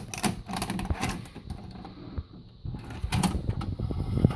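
A VCR loading a VHS tape, its mechanism whirring with irregular clicks and clunks. These are the weird noises the machine makes with this tape.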